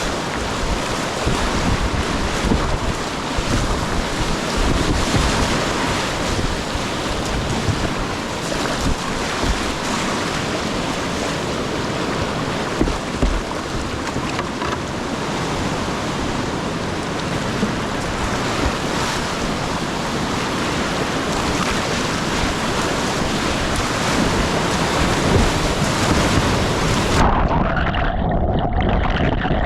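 Whitewater rapids rushing and churning around a kayak, a steady loud roar of water with wind buffeting the microphone. Near the end the sound suddenly turns muffled as the high hiss drops away.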